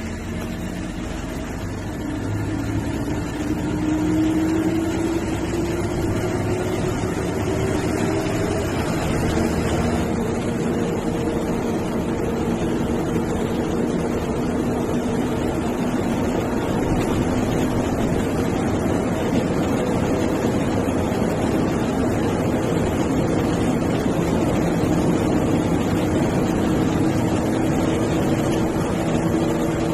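MSRTC bus diesel engine running under road noise; the engine note climbs over the first several seconds as the bus accelerates, then holds steady.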